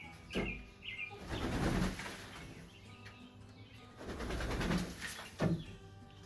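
Chickens flapping their wings as they jump down from the roost: about four short bursts of flapping, with a few short chirps near the start.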